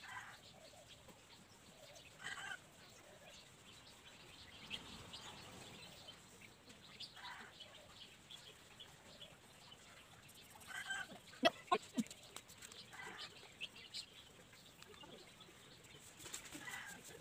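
Faint, scattered bird calls, a few short calls several seconds apart, with two sharp clicks a little past the middle.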